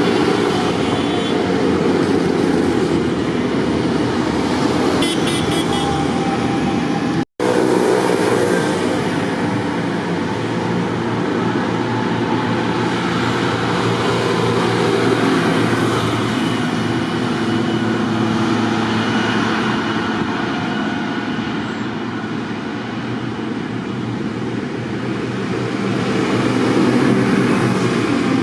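Tractor engines running as vehicles move along the route, a steady mix of engine and road noise, with a brief break about seven seconds in.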